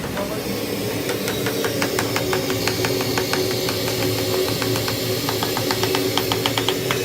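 A motor running steadily, with a quick, regular ticking over it, a few ticks a second, coming faster near the end.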